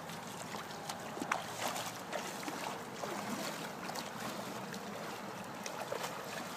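Someone wading through knee-deep floodwater: water sloshing, with many small scattered splashes.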